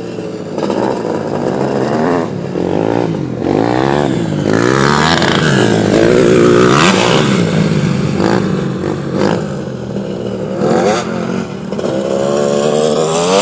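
Several dirt bike engines running at once, revving up and down as the bikes ride around, with their pitches rising and falling and crossing each other.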